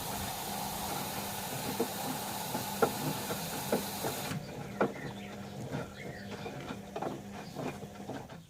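Bauknecht front-loading washing machine early in its wash cycle: a steady hiss, typical of water running in through the inlet valve, cuts off suddenly about four seconds in. Under it a steady hum carries on, with irregular knocks and clicks, until both drop away near the end.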